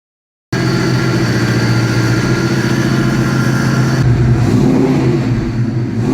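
A car engine running steadily, starting abruptly about half a second in; its sound changes about four seconds in.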